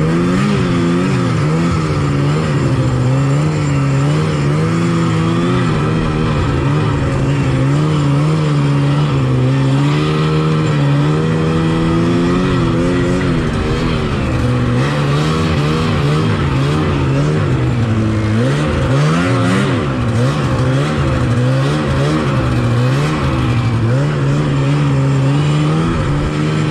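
1986 Yamaha Phazer 480 snowmobile's two-stroke twin engine running under way, heard on board, its revs wavering up and down with the throttle. About two-thirds of the way through the revs drop and climb back up.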